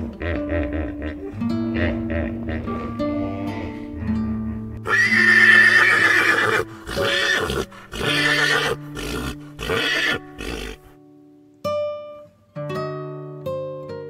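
Background music with plucked guitar-like notes. About five seconds in, an animal gives one loud call, then several shorter calls follow, stopping about eleven seconds in.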